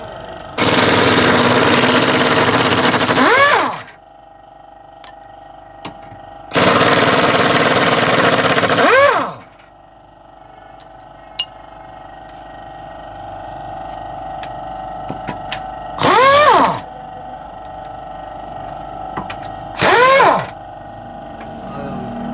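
Compressed-air gun blasting under the car in four bursts: two long blasts of about three seconds each, then two short ones near the end. Each blast dies away with a gliding whistle as the trigger is released.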